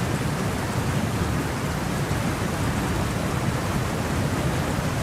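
Heavy rain pouring down in a steady downpour, with a dense, even hiss and a low rumble underneath.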